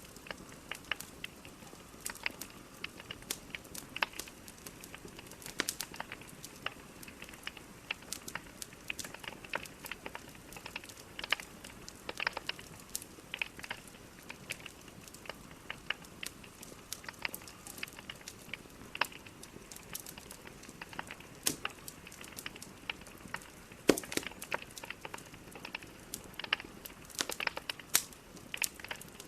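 Wood fire in a fireplace, logs burning with a steady soft hiss and irregular crackles and sharp pops, a louder pop about two thirds of the way through.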